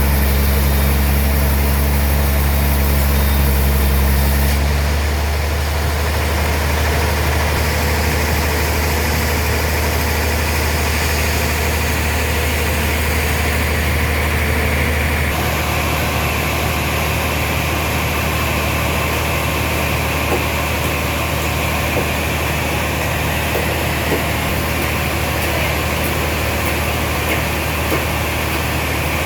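Heavy sawmill machinery running steadily with a deep hum. The sound changes abruptly about five seconds in and again about halfway through.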